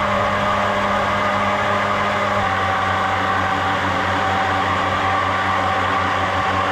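A motor running steadily with an even hum, its pitch stepping slightly about two and a half seconds in.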